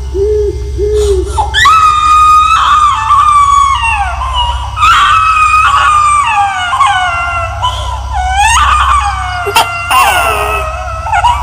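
Long, high wailing cries that hold and then slide downward, several overlapping one another, over a steady low drone: an eerie horror sound effect.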